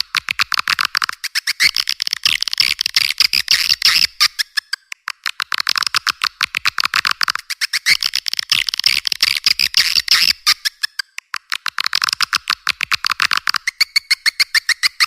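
Swiftlet lure call: a recording of swiftlet twittering, rapid sharp high chirps many times a second in long runs, broken by short pauses about every four to five seconds. It is the kind of call sound played in swiftlet houses to draw the birds in.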